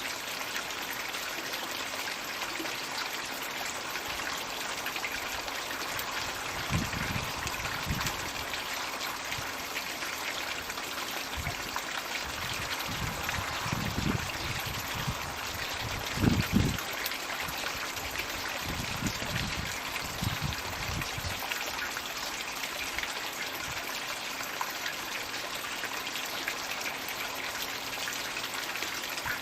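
Floating 'magic bucket' pond water feature running: a steady stream of water pouring and splashing into the pond. A few short low rumbles come through near the middle, the loudest about 16 seconds in.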